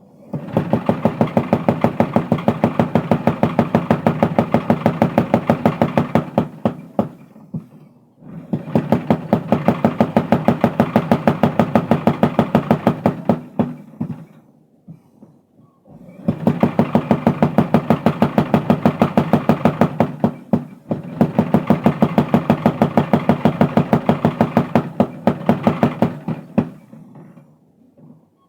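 Mechanical power hammer pounding hot steel bar while forging a crowbar, in rapid, even strokes. It runs in four bursts of several seconds each, with short pauses between them.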